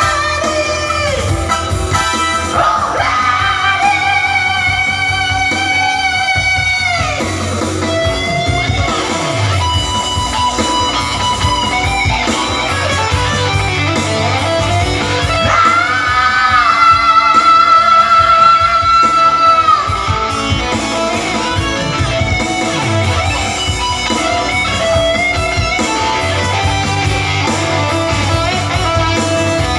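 Singing practice: a voice sings with guitar accompaniment, holding two long notes, the second, about halfway through, the loudest.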